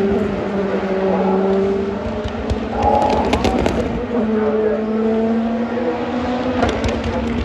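Race car engines running at speed on a circuit, several engine notes overlapping and gently rising and falling as cars pass, with a higher engine note joining about three seconds in.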